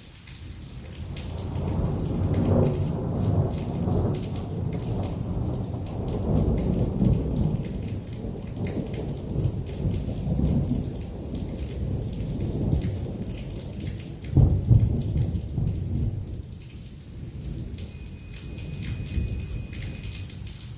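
Rolling thunder rumbling through a thunderstorm, building over the first two seconds, with a sharper, louder clap about fourteen seconds in before it dies away. Heavy rain pattering steadily underneath.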